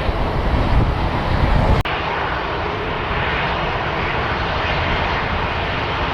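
Low rumble of wind on the microphone that cuts off suddenly about two seconds in, followed by the steady drone of turboprop aircraft engines.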